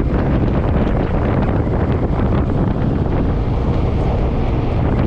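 Steady, loud wind rushing and buffeting over the microphone of a camera riding on a moving Suzuki M50 motorcycle, with a deep rumble underneath.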